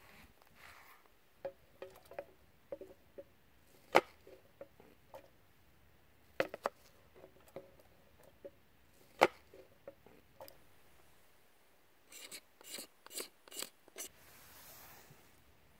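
Scattered light clicks and knocks of small objects being handled, a few with a short ringing note, two louder strikes, and a quick run of sharp clicks near the end followed by a soft rustle.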